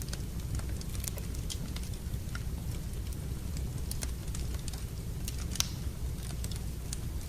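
Wood fire in a fireplace crackling, with irregular sharp pops and snaps over a steady low rumble of the flames; one louder pop about five and a half seconds in.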